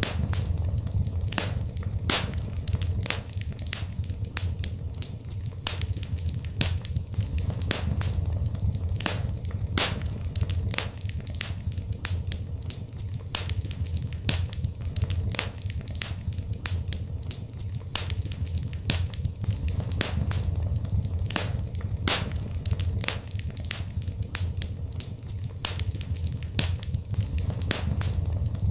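Wood fire burning in a fireplace: a steady low rumble of flame with constant irregular crackles and sharp pops, several a second.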